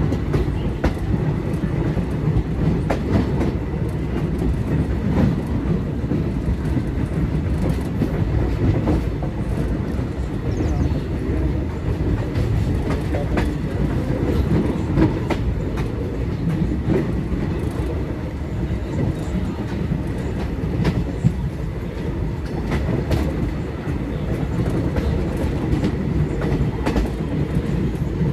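Moving Indian Railways passenger train running along the track: a steady low rumble with scattered clacks from the wheels passing over rail joints.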